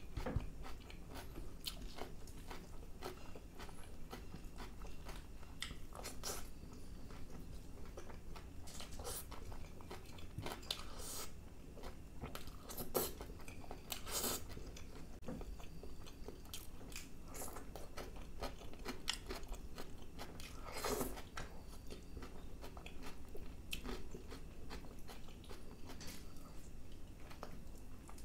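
Close-miked eating: a person chewing and biting pieces of chicken masala and naan by hand, with many short wet mouth clicks and a few louder bites near the middle.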